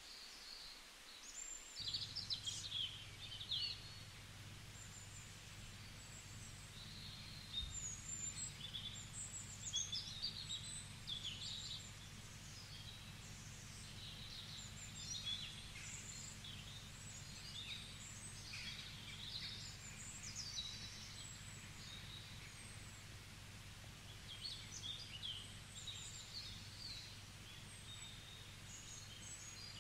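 Small birds chirping and singing, many short calls overlapping, faintly, over a steady low hum that comes in about two seconds in.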